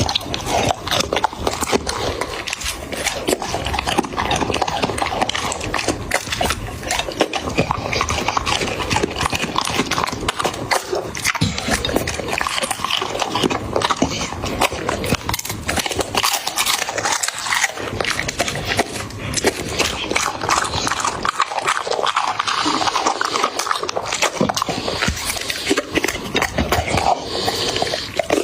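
A dog chewing and smacking as it eats roti, with quick clicks of its jaws and mouth in a steady run.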